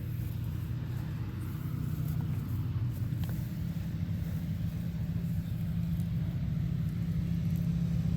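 An engine running steadily at a low idle, a continuous low hum that grows a little louder toward the end.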